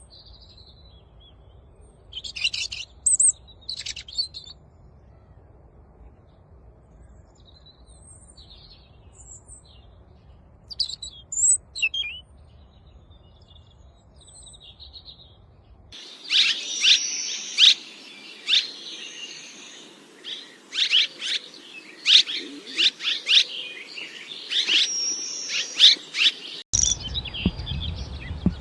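Songbirds singing: scattered high chirps and short phrases at first, then, after an abrupt change, a louder, busier run of rapid chirping notes.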